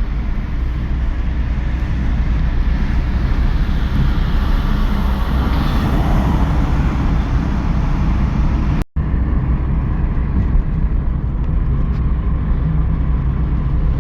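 Steady road noise and engine rumble of a moving car, heaviest in the low end, with a brief swell about halfway through. It drops out to silence for an instant about nine seconds in.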